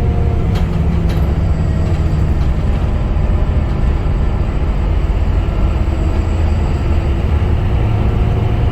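Scania K250UB city bus's five-cylinder diesel engine running steadily under way, a deep rumble with a faint whine over it. Two light clicks come about half a second and a second in.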